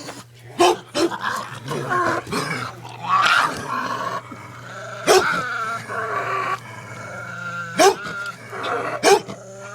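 Pug growling and yipping excitedly over a dog treat, a run of pitched growls broken by several short, sharp yips.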